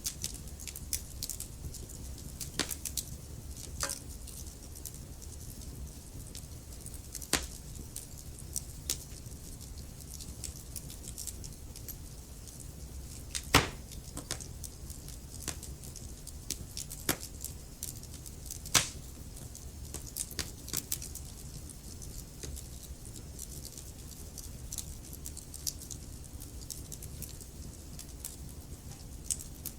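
Wood fire burning in a fireplace: a steady low rumble of the flames with irregular crackles and pops from the burning wood, two sharper pops standing out about halfway through and a few seconds later.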